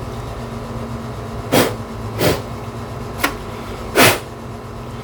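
Room air conditioner humming steadily, with five short, sharp noises from the work on the bench cutting through it at irregular intervals.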